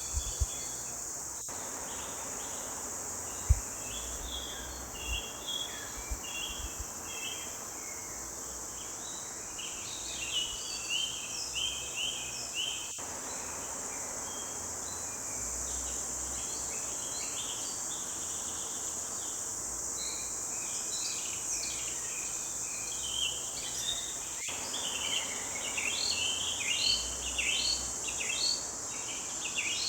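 A chorus of small songbirds chirping and singing in quick short phrases, busier in the second half, over a steady high insect hiss like crickets. A few brief low thumps come in the first few seconds, the loudest about three and a half seconds in.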